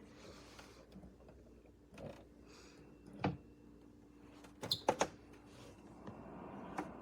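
Electric fireplace space heater running with a steady low hum from its motor, with a few sharp clicks or knocks, the loudest a quick cluster about five seconds in.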